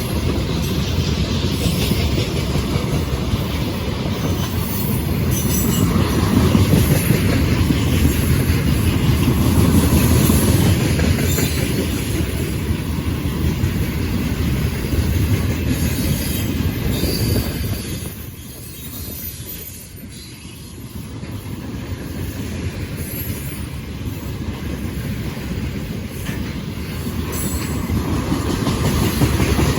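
A freight train's wagons rolling past, loud and steady. The noise drops off for a couple of seconds about two-thirds of the way through, then builds up again.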